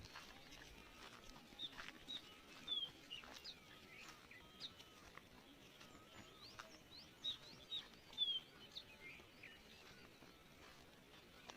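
Small birds chirping faintly: scattered short high notes and a few quick falling whistles, the loudest a little before 3 seconds and just after 8 seconds, over a faint steady outdoor hush.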